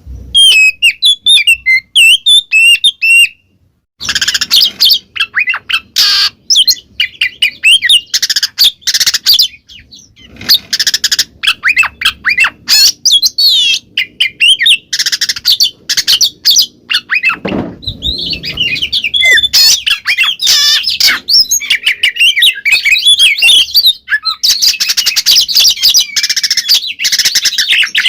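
Oriental magpie-robin (kacer) singing a loud, full song of rapid whistles, gliding phrases and harsh rasping notes, with a brief pause about four seconds in.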